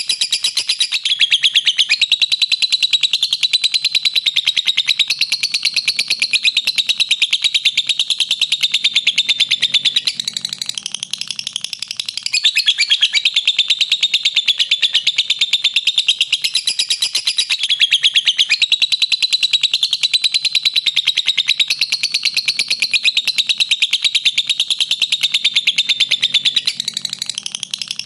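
Lovebird giving a long 'ngekek' chatter: a rapid, unbroken run of shrill notes, the prized long call of a fighter lovebird. It eases briefly about ten seconds in and again near the end, then carries on.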